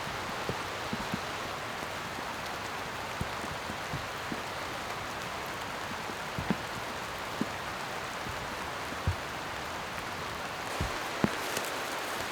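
Steady rain falling, with scattered heavier drops landing as short knocks every second or so.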